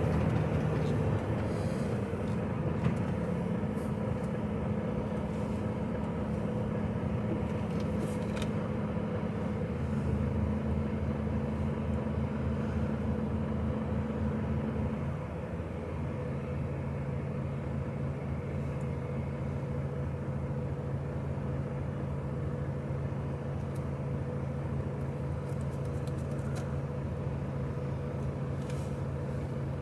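HGV lorry's diesel engine running, heard from inside the cab as the truck drives. The engine note steps up a few seconds in, then drops lower and quieter about halfway through.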